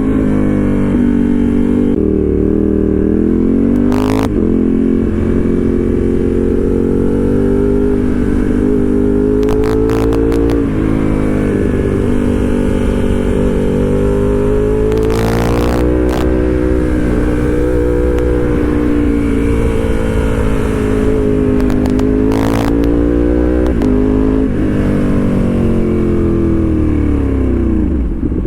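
Ducati Panigale V2's L-twin engine through a full titanium exhaust, its engine note rising and falling several times as it revs and eases off, and dropping away sharply near the end. A few brief sharp noises are heard along the way.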